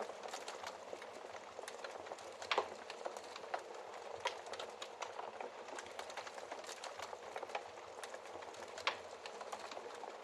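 Wood fire crackling in a fireplace: a steady bed of small crackles with a few louder, sharper pops scattered through.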